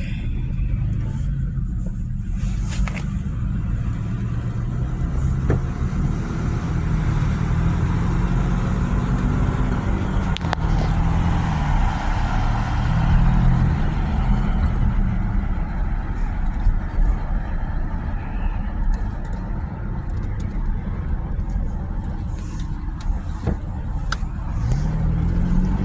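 Car being driven in stop-and-go city traffic: a steady engine and road rumble, with the engine note rising and falling several times as the car pulls away and slows.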